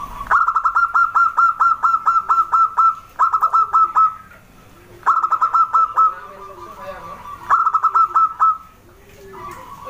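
Zebra dove (perkutut) calling: bursts of rapid staccato cooing notes, about five a second, in four runs with short pauses between them.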